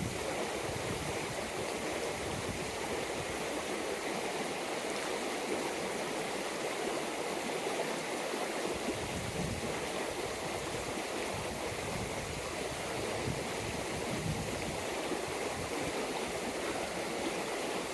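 Wild upland stream running, a steady rush of flowing water.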